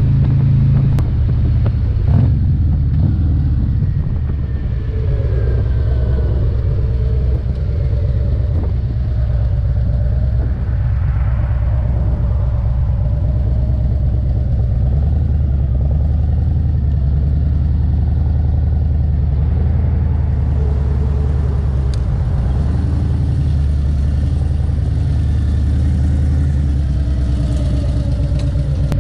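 Harley-Davidson Road Glide's Milwaukee-Eight 117 V-twin running steadily while the motorcycle is ridden, heard from an on-bike camera.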